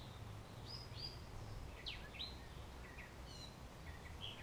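Faint outdoor ambience: scattered short bird chirps, several sliding down in pitch, over a low steady hum.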